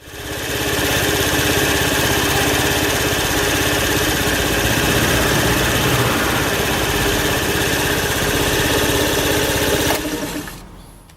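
Moped engine idling steadily with its muffler just refitted, run as a check for exhaust leaks. The sound drops away about ten seconds in and fades out.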